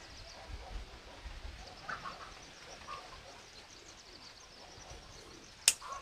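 Faint, short bird calls at a few spaced moments over quiet outdoor background, with one sharp click near the end.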